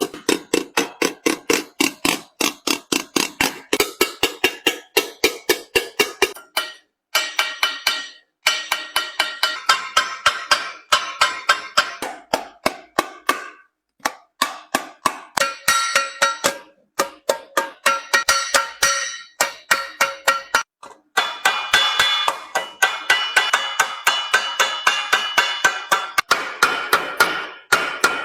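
Hand hammer striking a sheet-metal lid in quick, steady blows, about four a second, each with a bright metallic ring, doming the lid by hand; the hammering stops briefly a few times.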